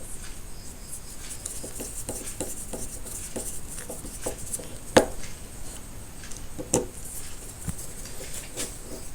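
Light clicks and taps of small metal parts and hand tools being handled, with two sharper clicks about five and seven seconds in.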